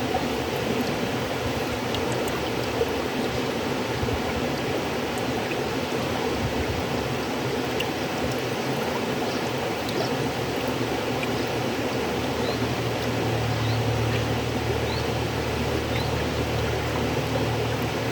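River water flowing: a steady rushing wash dotted with small splashes, with a low rumble growing stronger about two-thirds of the way through.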